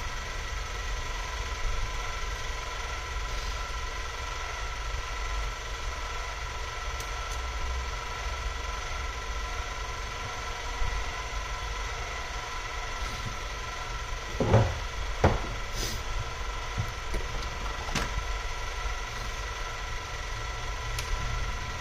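Steady machine hum with a faint high whine, broken by a few light knocks a little past the middle.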